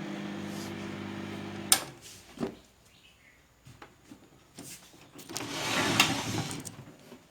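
Microwave oven running with a steady mains hum that stops with a sharp click about two seconds in, followed by another click and, near the end, a second or so of rustling handling noise.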